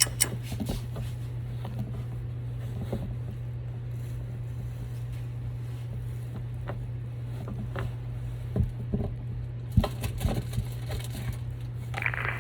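Steady low hum with a few light clicks and knocks about nine to ten seconds in.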